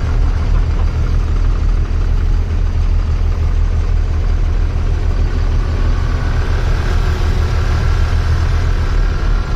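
A heavy truck engine running steadily with a deep, continuous rumble.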